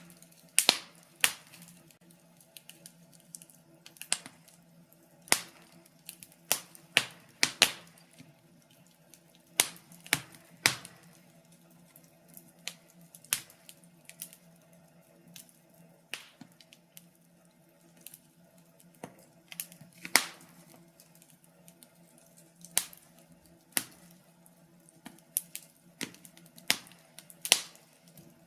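Fire crackling, with irregular sharp pops, some in quick clusters and others seconds apart, over a faint steady low hum.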